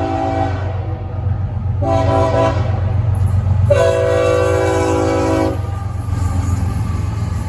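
Locomotive air horn sounding a chord in three blasts, long, short, then long, over the steady low rumble of the approaching train.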